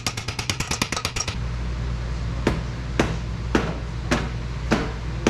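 A ratchet clicks rapidly, about ten clicks a second, while working a claw exhaust spreader on a dented exhaust pipe end, and stops about a second in. Then come sharp ringing metal taps, about two a second, like a hammer striking the steel pipe.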